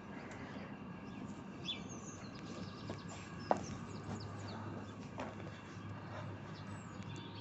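Birds chirping faintly and sparsely over steady low background noise, with a single short click about halfway through.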